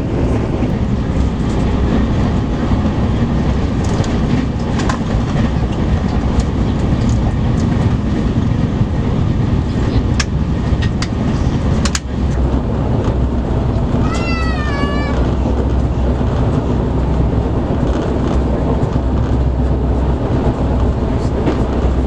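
Double-decker express train running along the track: a steady rumble and rattle of the coaches, with a few sharp clicks around ten to twelve seconds in and a brief warbling high-pitched squeal about fourteen seconds in.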